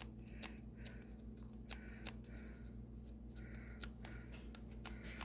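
Faint, intermittent scraping and light clicking of a hand tool working over the plastic of a backpack blower, cleaning off old duct-tape residue.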